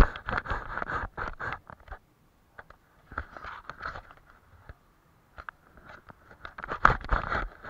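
Paintbrush scraping across paper in short repeated strokes, with a few sharp taps; the strokes thin out in the middle and pick up again near the end.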